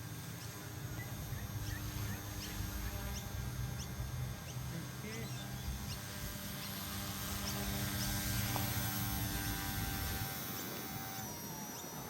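K110S micro RC helicopter's motors whining in flight, a steady hum of several tones that cuts off about ten seconds in, over a low rumble. Short high chirps repeat about once a second above it.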